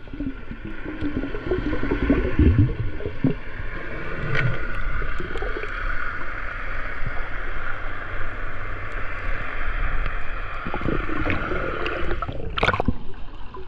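Underwater sound picked up by a diving camera: muffled water movement and gurgling with a steady hiss and low rumble.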